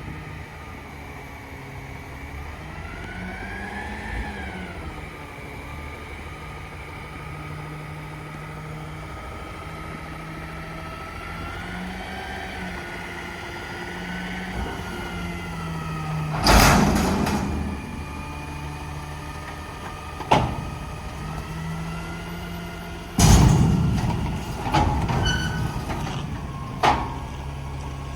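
Garbage truck's diesel engine running steadily under a whine that rises and falls. Two loud, sudden bursts of noise come about two-thirds of the way through and again near the end.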